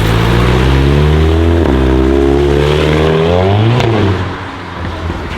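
A car engine accelerating hard, its pitch climbing, with a gear change about a second and a half in, then climbing again before the pitch drops and the sound fades as the car passes away.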